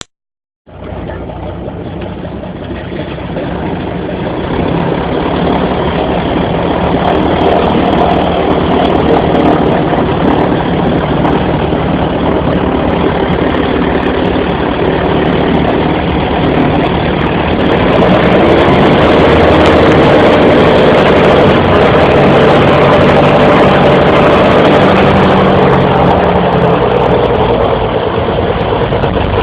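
Twin piston engines of a de Havilland Dragon Rapide biplane running steadily, fading in about a second in. They grow louder about 18 seconds in, as the engines are opened up.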